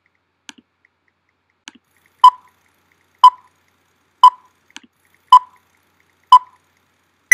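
Film-leader countdown sound effect: five short beeps, one a second, then a single higher-pitched beep right at the end. A few faint clicks come before the beeps start.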